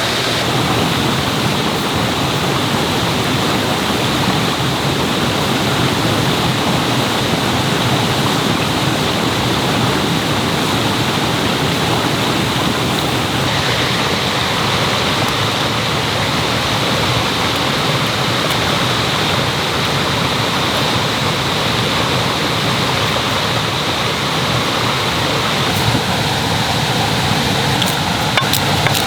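Mountain stream rushing steadily, a loud, even water noise, with a few faint clicks just before the end.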